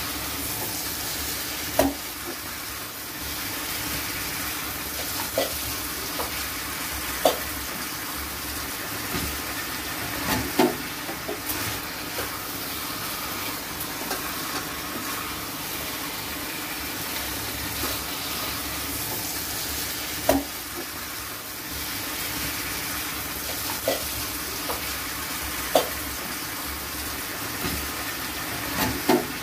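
Chicken pieces sizzling as they fry in oil and spice paste in a kadai, stirred with a wooden spatula. The spatula knocks sharply against the pan about eight times at irregular intervals. This is the kosha stage, where the meat is slow-fried in its masala.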